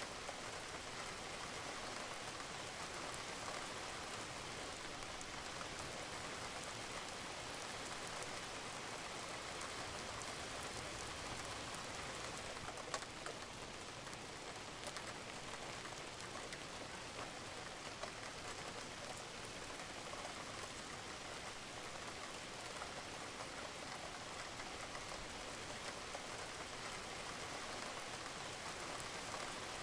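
Steady rain falling on a roof, with scattered drops ticking and one sharper drip about thirteen seconds in.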